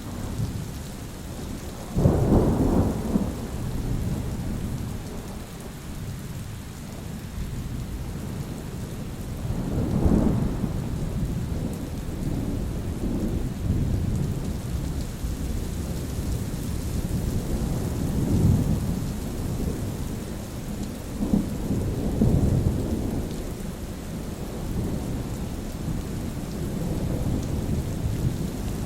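A thunderstorm: steady rain with rolling thunder. A sudden loud clap breaks in about two seconds in, another strong rumble comes around ten seconds, and further rumbles follow later.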